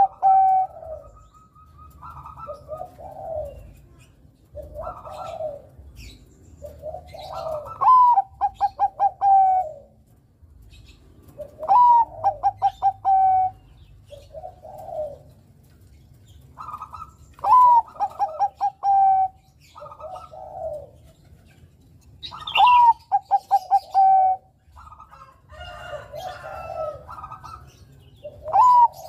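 Perkutut Bangkok (zebra dove) singing its repeated song, about five phrases in all. Each phrase is a rising note, then a quick run of clipped coos ending on a longer held coo. Softer, lower coos come between the phrases.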